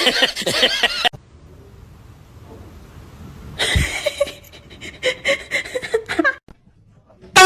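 A person's voice, laughing, in two short stretches with a quieter pause between.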